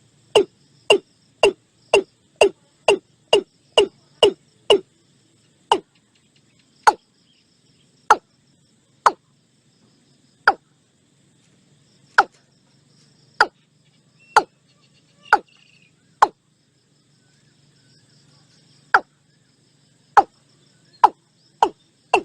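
Watercock calling: a series of short, knocking notes, each falling in pitch. They come about two a second at first, slow to single notes a second or more apart with a pause of a few seconds, then quicken again near the end.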